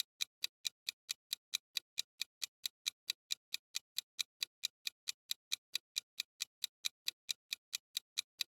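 Clock-style ticking sound effect of a quiz countdown timer: short, even ticks about four to five a second, running steadily without change.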